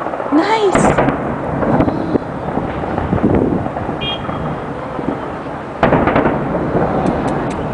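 Many fireworks and firecrackers going off at once: a continuous rumble of overlapping bangs, with sharper close cracks about half a second in, about six seconds in and near the end.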